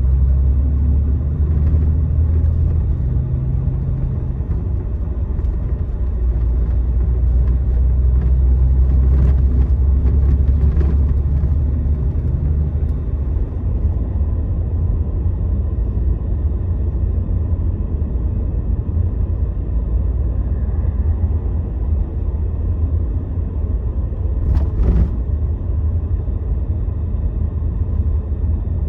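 Scania Astromega double-decker coach driving on the expressway: a steady low rumble of engine and road noise. A few faint clicks come about ten seconds in, and a sharper click comes near the end.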